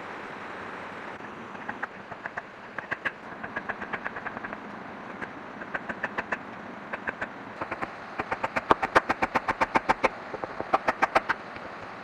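A tool striking bamboo in quick runs of sharp knocks, several a second, growing louder and faster in the second half, over a steady hiss.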